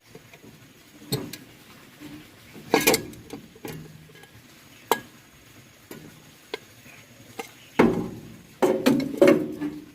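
Irregular metallic clinks and knocks, a few single strikes spaced a second or two apart, then a quicker cluster of louder knocks near the end.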